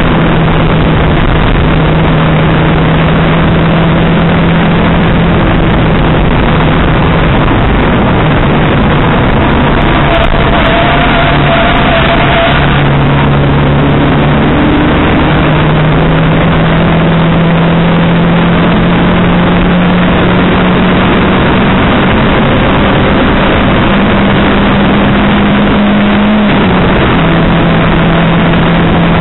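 Race car engine heard from inside the cabin at racing speed, loud over heavy wind and road noise. Its note sags about eight seconds in, climbs steadily for about ten seconds, then drops suddenly at a gear change near the end.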